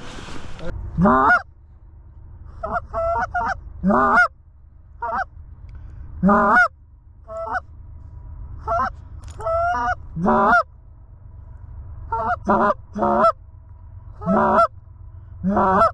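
Canada geese honking: loud single and double honks, each rising then breaking downward, repeated about every second with a few quick clusters.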